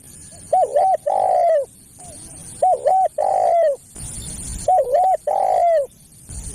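Spotted dove (tekukur) cooing its song three times, each phrase two short coos followed by a longer, falling coo.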